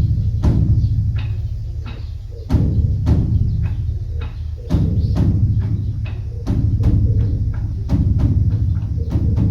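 Beopgo, the large Korean Buddhist dharma drum, beaten by a monk with two sticks. Heavy strokes come about every two seconds and each leaves a deep, ringing boom, with rapid, sharp wooden stick clicks in between.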